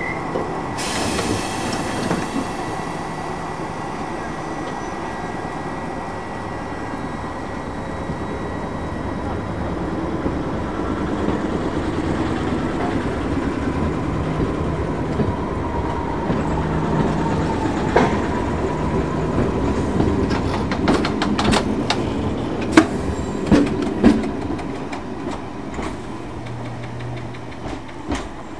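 London Underground A Stock electric train pulling out of the platform and moving away. It runs steadily, then a quick series of clicks and clacks comes from its wheels over rail joints and points, and the sound eases off near the end as it leaves.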